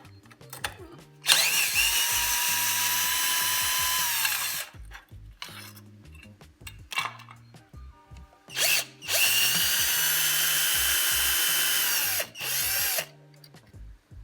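Electric power drill/driver running in two steady bursts of about three seconds each, its whine dropping as the motor spins down at the end of each, with brief blips around the second burst.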